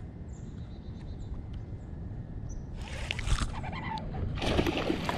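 Steady low rumble of wind on the microphone. From about three seconds in come bursts of rustling and splashing noise around a fishing kayak, growing denser toward the end.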